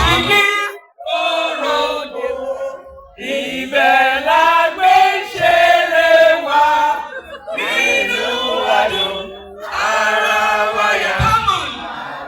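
Several voices singing together without the beat, with held, wavering notes. The bass and beat drop out at the start and come back near the end.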